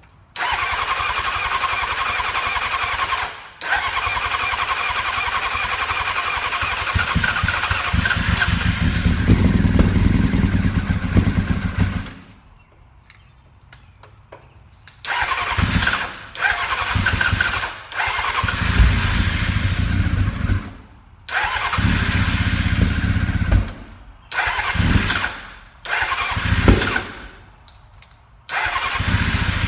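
A 2000 Honda F4's four-cylinder engine, fed only by fuel left in its carburettors with no tank fitted, is cranked on the electric starter and catches. It runs unrevved for several seconds, then stops. It is cranked again in a string of short bursts, each firing only briefly. It has no knocks or pings, though the carb fuel is probably years old.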